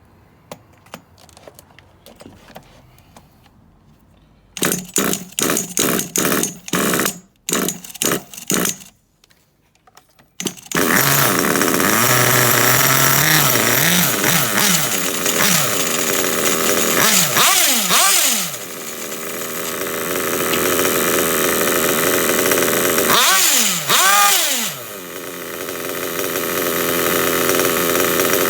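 Small nitro RC car engine spun over on a starter box in a series of short bursts, then catching and running continuously. It is revved briefly twice, the pitch rising and falling back, and settles to a steady idle.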